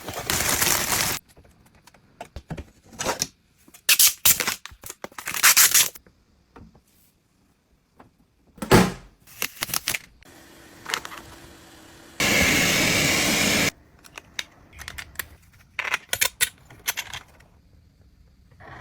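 A string of short clicks, rustles and scraping noises with quiet gaps between them, and one steady hiss about twelve seconds in that lasts a second and a half.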